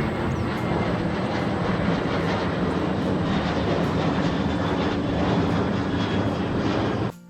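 Jet aircraft flying low overhead: a loud, steady rush of engine noise with a deep rumble underneath, cut off suddenly near the end.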